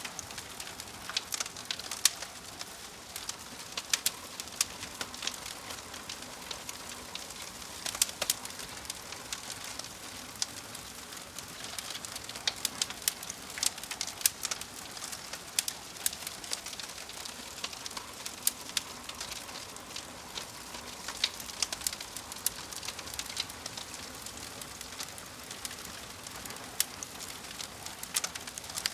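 Wood fire in a fireplace crackling: a steady hiss with frequent sharp, irregular pops and snaps from the burning logs.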